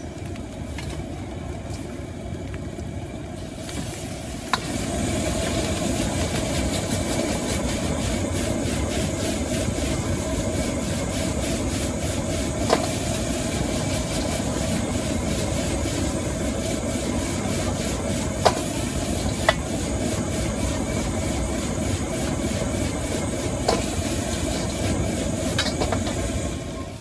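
Gas wok burner's steady rush with food sizzling in a wok, growing louder about four seconds in; a metal spatula strikes the wok a few times.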